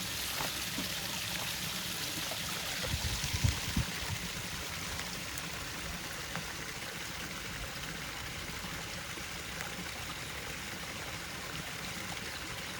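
Water running and trickling steadily, with a few low knocks about three to four seconds in.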